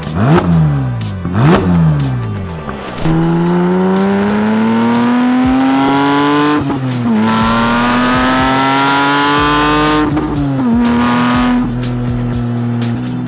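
Porsche 992.2 GT3 Touring's naturally aspirated 4.0-litre flat-six breathing through an Akrapovič titanium slip-on Race Line exhaust. It gives two quick throttle blips, then a long pull with rising pitch. An upshift comes about six and a half seconds in, followed by a second rising pull and another upshift about ten seconds in, after which it settles to a steadier run.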